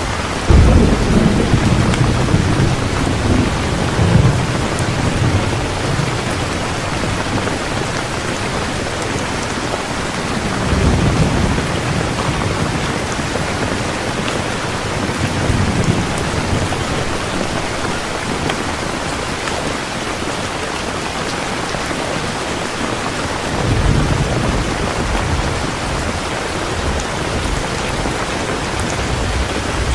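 Heavy rain falling steadily, with low rolls of thunder rumbling in several times, the strongest right at the start and another near the end.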